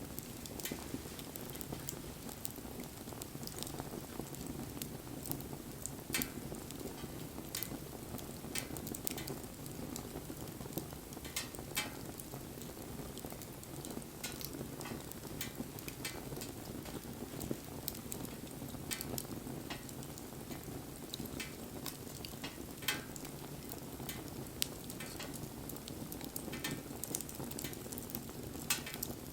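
Wood fire burning with a steady low rush, broken by frequent irregular crackles and sharp pops.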